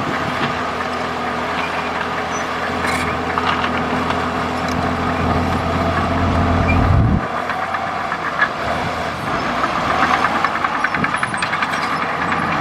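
Komatsu D65E bulldozer's diesel engine running with a deep note that builds and then cuts off abruptly about seven seconds in, over continuous metallic rattling and clicking.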